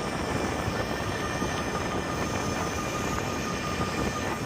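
Electric bike riding at speed: steady wind rushing over the microphone and tyre noise, with a faint steady high whine from the motor.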